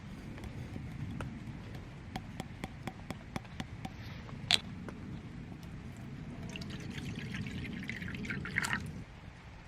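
Liquid pouring steadily into a glass, with scattered light clicks throughout and brighter splashing near the end before the pour stops.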